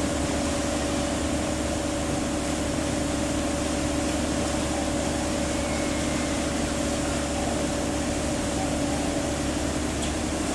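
Steady mechanical drone: a constant low hum with a fainter tone an octave above it, over an even hiss, unchanging throughout.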